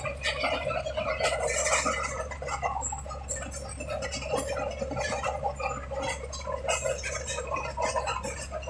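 Bulldozer moving on its tracks: the diesel engine runs steadily under a continual clatter of many quick clicks from the undercarriage.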